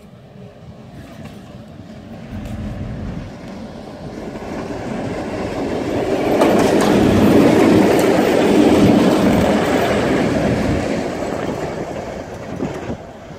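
Class 661 diesel-electric locomotive, an EMD G16 with a two-stroke V16 engine, running light past: its engine and wheels grow louder, peak about halfway through with wheels clacking over the rail joints, then fade away.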